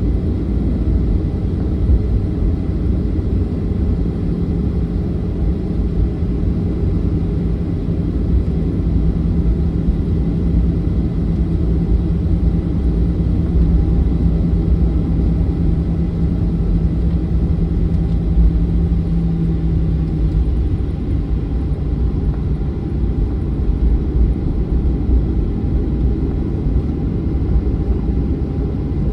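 Boeing 737-900's CFM56 jet engines running at low power with a steady rumble, typical of an airliner on the ground between engine start and takeoff. A steady hum under the rumble drops slightly in pitch about two-thirds of the way through.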